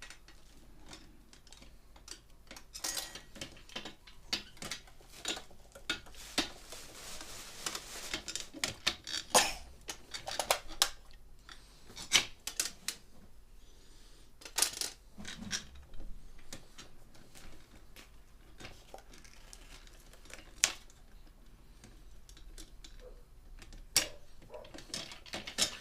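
Irregular clicks, taps and light clatters of small metal and plastic parts being handled and fitted during the assembly of an oil-filled radiator.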